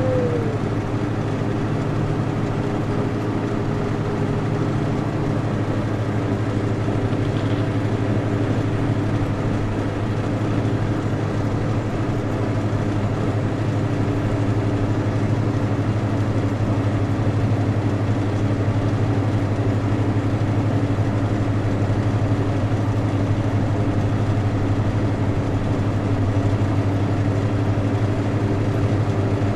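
Vehicle engine running steadily while driving, a constant low hum.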